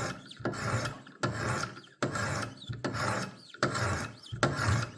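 Wicked Edge WE60 guided knife sharpener: a sharpening stone rasping along a steel knife edge in quick, regular strokes, about two a second. The second side is being worked to raise a burr at the apex.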